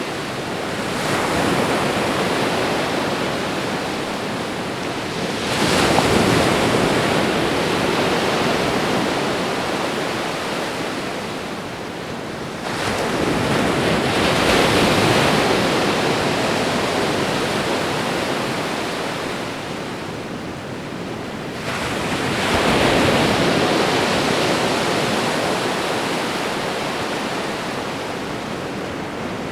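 Ocean waves breaking and washing up a shore, a steady rush of surf that swells with a new wave about every seven or eight seconds and fades slowly between them.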